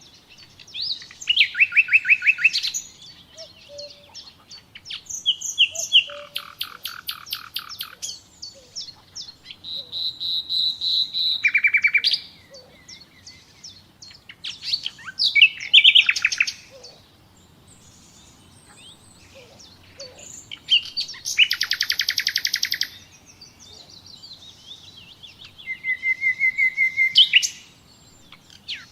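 Common nightingale singing: a string of varied phrases, each a second or two long, separated by short pauses. The phrases mix fast repeated rattling notes, trills and pure whistled notes, with a run of repeated whistles near the end that ends in a sharp upward-sweeping note.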